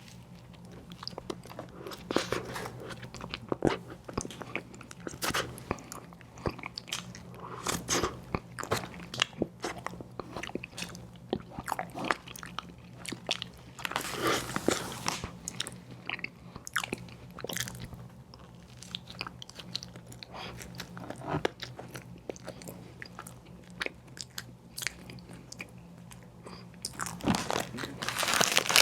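Close-miked eating of an ice cream sandwich: repeated bites and crunches with chewing between them, and a louder noisy burst near the end.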